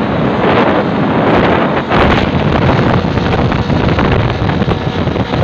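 Vespacar three-wheeled rickshaw racer's engine running loudly, with wind buffeting the microphone.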